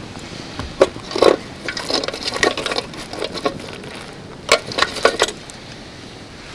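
A series of short knocks and clinks, as of camp gear or utensils being handled, coming in three clusters: around a second in, in the middle, and about two-thirds through.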